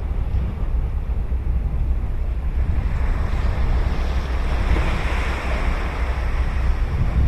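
Ocean waves breaking and washing up a beach, one wave's hiss swelling to a peak about five seconds in and then fading. A steady low rumble of wind on the microphone runs underneath.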